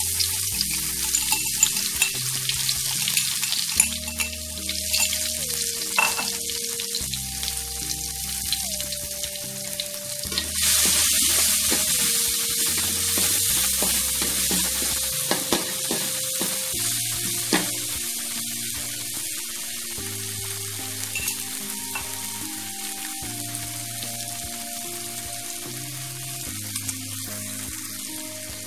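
Food sizzling and crackling in hot cooking oil in a pan. The sizzle grows louder about ten seconds in, then slowly eases.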